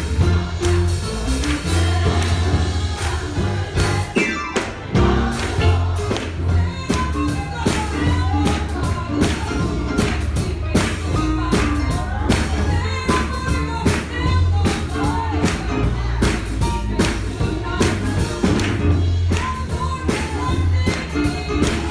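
Congregation singing a gospel song with instrumental accompaniment: voices over a heavy bass line and a steady percussive beat.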